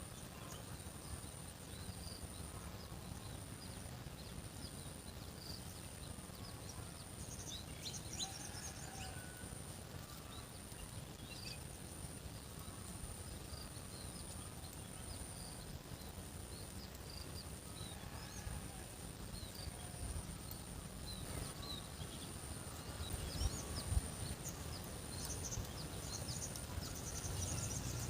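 Rural outdoor ambience: small birds chirping in short scattered calls over a steady low rumble and a steady high, thin whine, with a few knocks near the end.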